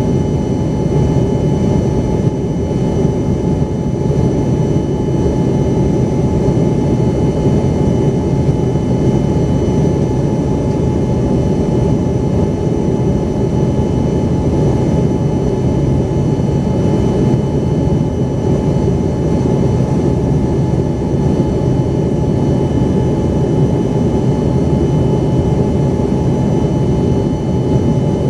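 Cabin noise of an Embraer ERJ-135 in flight: the rear-mounted Rolls-Royce AE 3007 turbofans run steadily. A deep, even rumble carries several thin, steady whining tones above it.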